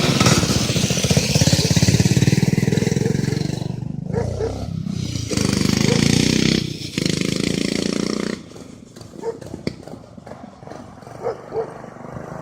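Small engine of a homemade off-road vehicle running hard, with the revs dropping and picking up twice, then fading away after about eight seconds, leaving a few short high chirps.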